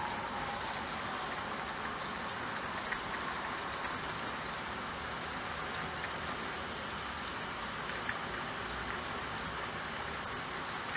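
Steady rain falling, an even hiss with the odd louder drop ticking through it.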